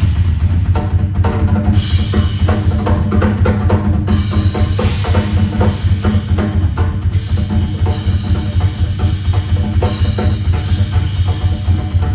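Live rock band music with the drum kit to the fore: bass drum and snare driving a busy rhythm over a sustained low bass.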